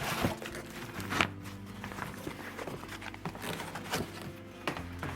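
Packaging and a carry bag being handled during unboxing: rustling, crinkling and small knocks, with one sharper click about a second in, over soft background music.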